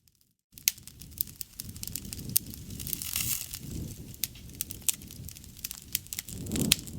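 Wood campfire crackling and popping, with sharp snaps over the low rush of the flames. It starts about half a second in, after a moment of silence.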